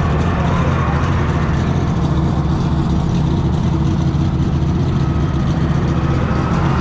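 Heavy engine idling steadily at an even, unchanging pitch.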